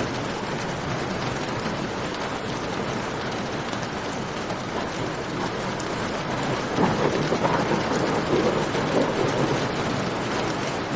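Steady rain falling, with faint crackling from a campfire. About two-thirds of the way in, a louder low rumbling swells for a few seconds and then subsides.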